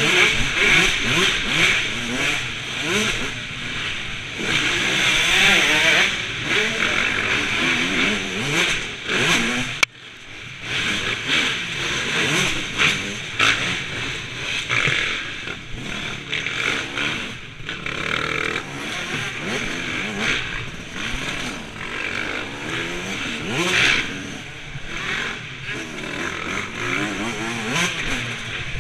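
Motocross bikes running on a dirt track, engines revving up and down as they go over the jumps and corners, several at once. The sound breaks off abruptly about ten seconds in and resumes straight away.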